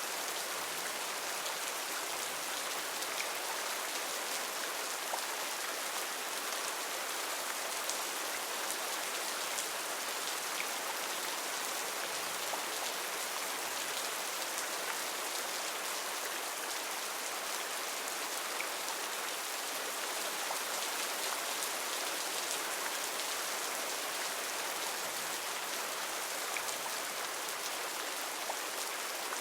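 Heavy rain falling steadily, an even hiss with many fine drop ticks and no let-up.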